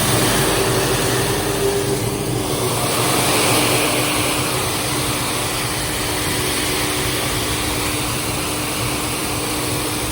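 Self-propelled crop sprayer running steadily, engine and machine noise with a steady hum that drops slightly in pitch about two and a half seconds in.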